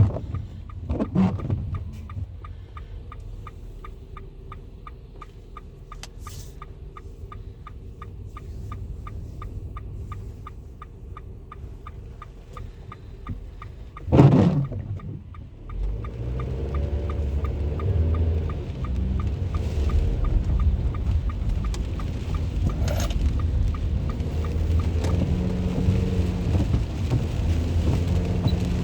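Low traffic rumble in the rain, with a fast, even light ticking through the first half and a loud vehicle sweeping past about halfway through; the rumble grows louder and fuller after that.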